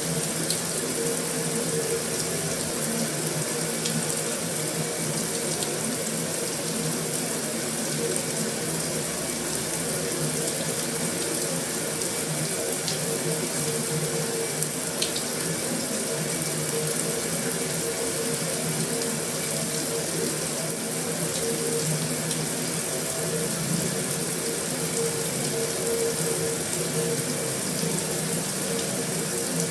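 Heavy rain falling steadily on a metal roof: a continuous, even hiss with a few faint ticks of individual drops.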